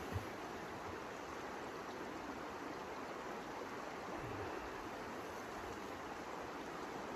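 A steady rushing noise with no clear pitch, with a short low thump just after the start and a softer one about four seconds in.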